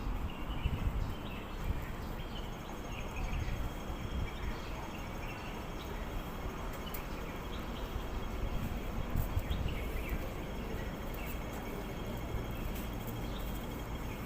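Birds chirping in scattered short calls over a steady hum of background noise.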